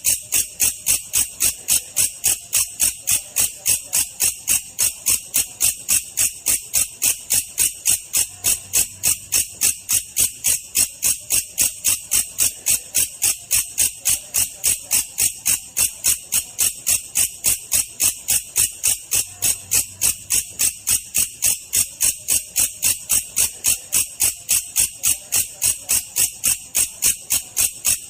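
Belalang kecek, a katydid, calling in a slow, steady series of sharp, high chirps, about three a second, evenly spaced.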